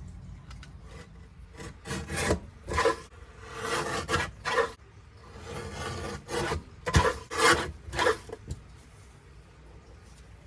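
A run of irregular rubbing, scraping strokes, some short and some drawn out, loudest in a cluster about seven to eight seconds in.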